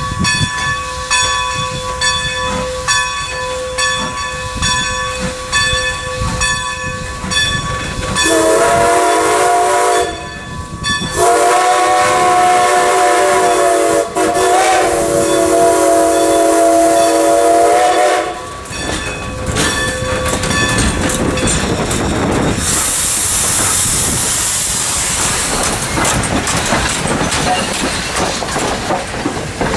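Steam locomotive bell ringing in repeated strikes. About eight seconds in, the locomotive's steam whistle blows a short blast and then a long one of about seven seconds. Near the end a loud hiss of steam rises over the rumble of the moving train.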